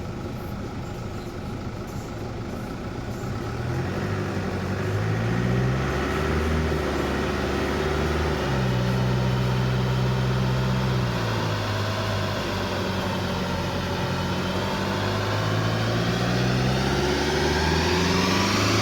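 Mercedes C 220 engine running with its note holding steady pitches that step up and down several times. It gets louder after a few seconds, and a whine starts rising over the last few seconds as it gathers speed.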